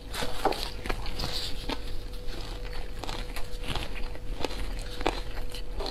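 Close-miked chewing of a mouthful of smoked pork belly: short, irregular clicks and smacks of the mouth, several a second.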